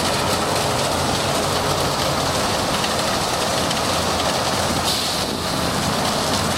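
Ryko Soft Gloss Maxx 5 automatic car wash running, with water spraying over the car and a steady machinery hum beneath. A brief brighter hiss comes about five seconds in.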